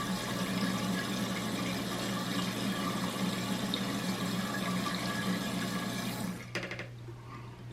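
Toilet tank refilling through its fill valve: a steady rush of water that cuts off suddenly about six and a half seconds in, as the raised float shuts the valve.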